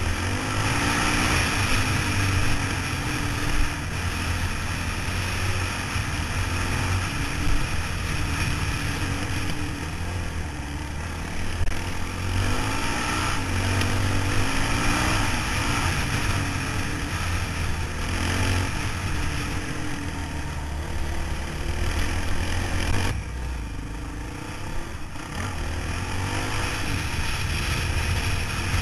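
Motorcycle engine running steadily under way, its pitch wavering slightly, with a broad rush of wind over it.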